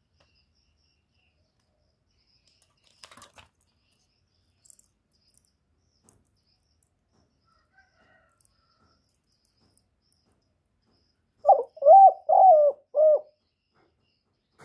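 Male spotted dove cooing: one loud phrase of about four notes near the end, after a few faint clicks.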